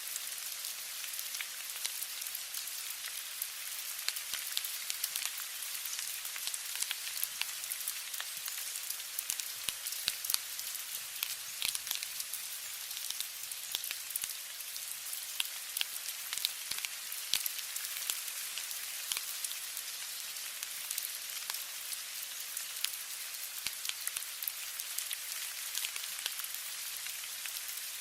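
Steady rain: an even hiss with many separate drops ticking throughout.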